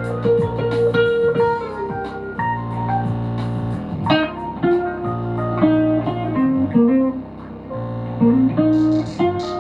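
Guitar music: a picked melody with bent notes over a steady low droning note.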